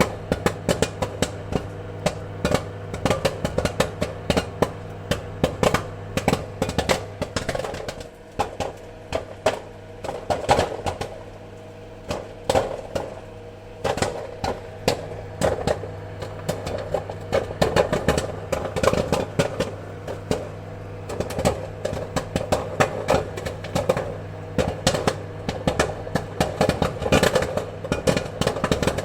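Popcorn kernels popping in quick, irregular bursts of sharp pops, many a second and coming in waves, over a steady low hum.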